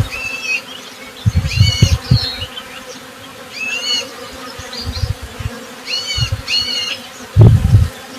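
Honey bees buzzing close by, the low drone swelling and fading as they fly past, loudest near the end. Short repeated bird chirps sound over it every second or two.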